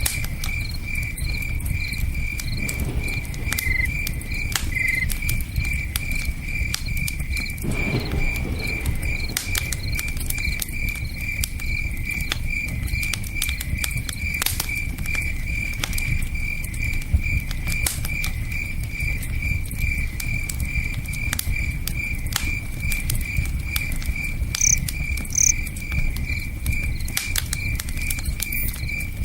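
Crickets chirping steadily, about two chirps a second, over the scattered pops and crackles of a campfire and the low steady rush of a river.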